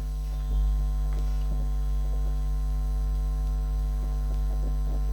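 Steady low electrical mains hum with a stack of even overtones, with a few faint clicks.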